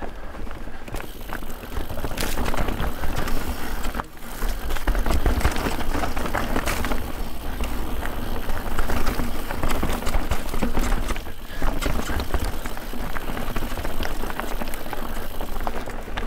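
Guerrilla Gravity The Smash mountain bike descending a rough trail: tyres rolling over dirt and rocks, with many small rattles and knocks from the bike, and a steady low wind rumble on the microphone.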